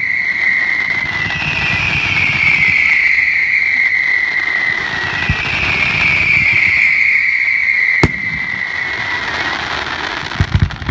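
Fireworks whistling: long high whistles that slowly fall in pitch, one after another, over a hiss of sparks. A single sharp bang comes about eight seconds in, and a quick run of pops starts near the end.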